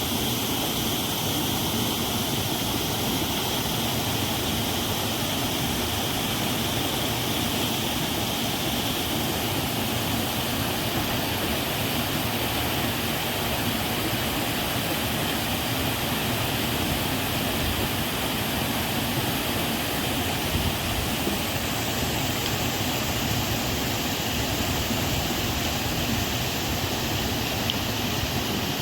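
Waterfall water rushing steadily, an even continuous roar with no breaks.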